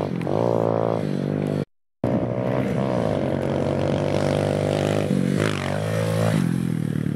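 Kawasaki KX65 dirt bike's two-stroke single-cylinder engine revving, its pitch rising and falling with the throttle. The sound cuts out for a moment just under two seconds in, and the revs fall off near the end.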